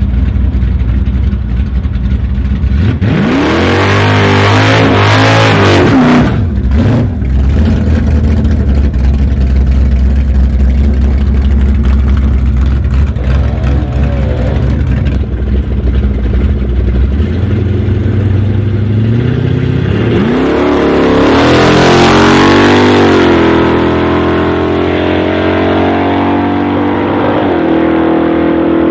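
Car engines under hard acceleration in a drag race between a Dodge Coronet's Mopar big-block V8 and a VW Golf R32 Turbo. The revs climb sharply a few seconds in, break off briefly around six or seven seconds, hold a steady drone, and then climb again at about twenty seconds.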